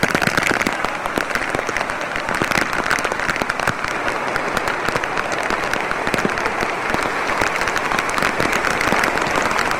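Heavy rain falling, a dense, steady patter of countless drops.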